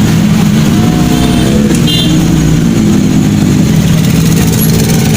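Motorcycle engine running, with a slight rise in pitch between about one and two seconds in. A short high beep sounds about two seconds in.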